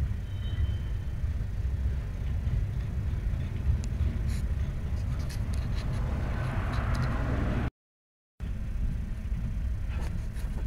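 Freight train of lumber-loaded flatcars rolling past: a steady low rumble of wheels on rail, with scattered clicks and a rising hiss building about four to seven seconds in. The sound cuts out completely for under a second about eight seconds in.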